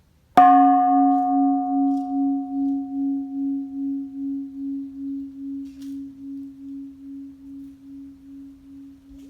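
A bell-like metal tone struck once, about half a second in. Its higher overtones fade within a few seconds, while a low hum rings on through the rest, wobbling in loudness about twice a second and slowly dying away.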